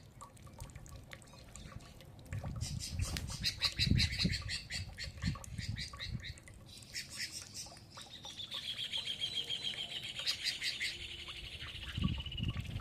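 Birds calling and singing: quick runs of high, repeated chirps, then a long, fast trill that slides gradually lower, with a few low thumps underneath.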